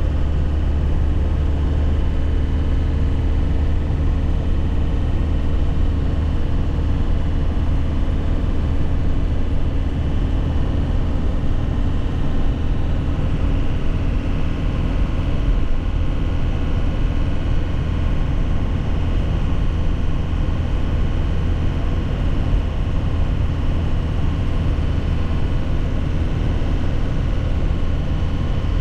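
2001 Nissan Cabstar truck driving, heard from inside the cab: a steady, deep engine drone with no gear changes or revving.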